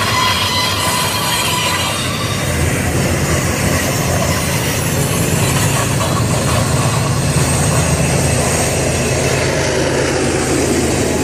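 Double-stack intermodal freight train rolling past with a steady rumble of wheels on rail. A high wheel squeal sounds at first and fades out about two seconds in.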